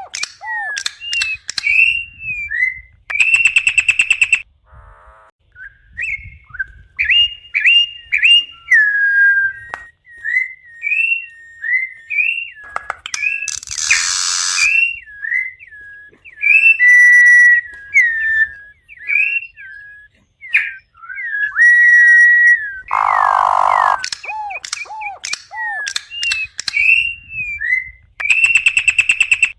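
Campo troupial (corrupião) singing: a long string of short, clear whistled notes that slide up and down, broken now and then by harsh, raspy notes.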